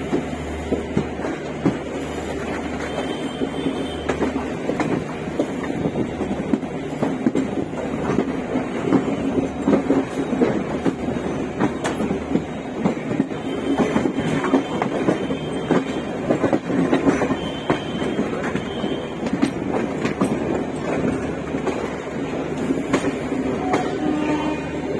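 Passenger train coaches rolling along the track, heard from aboard the train: a steady rumble of wheels and running gear with frequent clicks and clacks as the wheels pass over rail joints and points.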